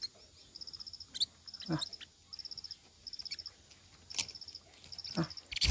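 A cricket chirping in short, pulsed, high trills that repeat about every three-quarters of a second. A few brief, sharp calls are heard between them.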